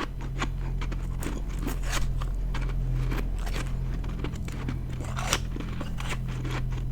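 Ice being chewed close to the microphone: many small crisp crackles and crunches, over a steady low hum.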